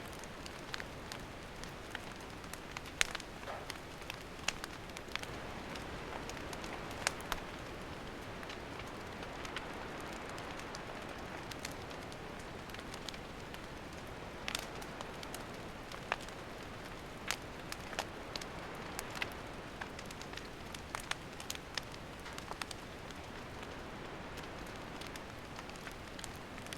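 Wood campfire burning, with sharp, irregular pops and snaps of the burning wood over a steady soft hiss.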